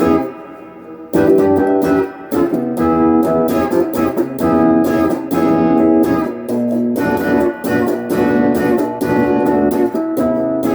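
Electric guitar on its bridge pickup, with the controls on 10, played through a Crate GX15R amp and a Golden Plexi overdrive pedal. It plays a driven run of picked notes and chords that comes in strongly about a second in.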